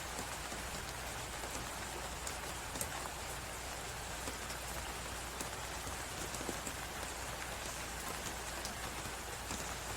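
Fireplace crackling with scattered small pops over a steady hiss of blizzard wind.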